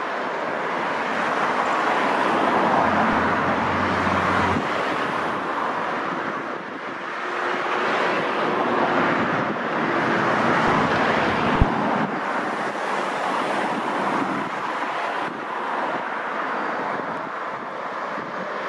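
Class 150 Sprinter diesel multiple unit running as it pulls away into the distance, heard as a steady rushing noise mixed with wind on the microphone. There is a single sharp knock about twelve seconds in.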